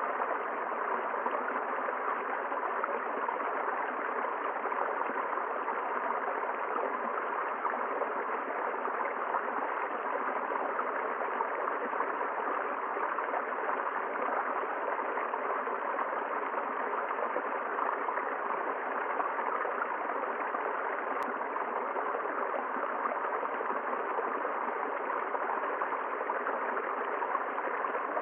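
A river flowing, a steady, unchanging rush of water.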